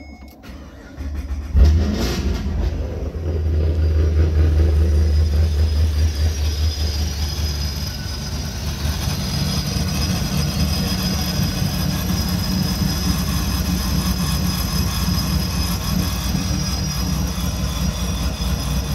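Pontiac G8 GT's 6.0 L V8, fitted with a TorqueStorm supercharger, BTR Stage 3 naturally-aspirated cam and aftermarket exhaust, being started. The starter cranks briefly and the engine catches about a second and a half in. It runs loud for several seconds after firing, then settles to a steady idle.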